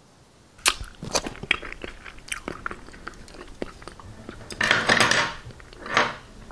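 Close-miked eating sounds: crisp food being bitten and chewed, a string of sharp crunches with a longer, louder crunch just before the five-second mark and another about a second later.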